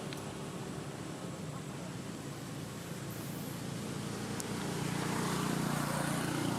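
A motor vehicle engine running with a steady low hum that grows louder about four seconds in, as if the vehicle is drawing nearer.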